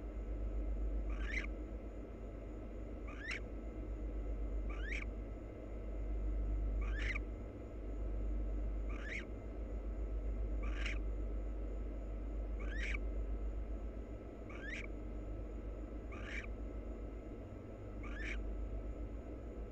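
Barn owl in a nest box giving a short, rising call about every two seconds, ten times in all, over a steady low hum.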